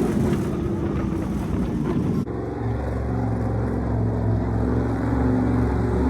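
Vehicle engines running steadily, with an abrupt change in the sound about two seconds in.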